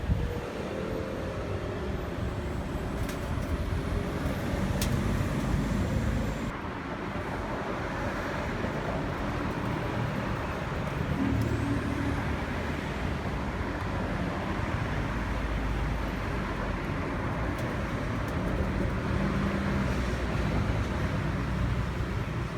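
A car running: a steady engine and road-type drone with no clear whine or knock standing out.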